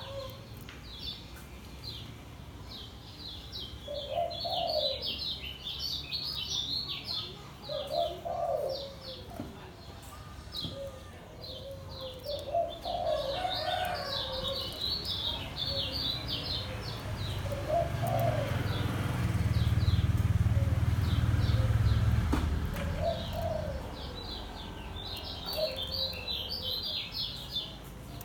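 A kecial kuning (white-eye) singing its fast chattering 'ngejos' song in bursts of rapid high notes, several seconds apart. A lower cooing call repeats every four or five seconds behind it, and a low rumble swells and fades in the middle.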